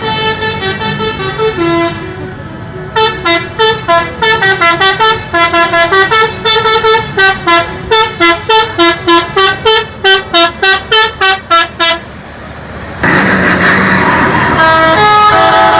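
Multi-tone musical vehicle horn. It holds one chord, then plays a quick tune of short notes at about three or four a second, and near the end it gives a loud, hissing blast.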